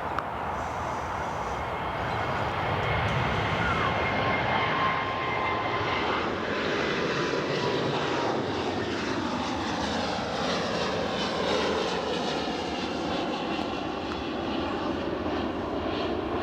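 Singapore Airlines Boeing 787-10's Rolls-Royce Trent 1000 engines at takeoff power, a steady jet roar that swells about four seconds in as the airliner rolls and climbs past; a falling, sweeping tone runs through it as it goes by.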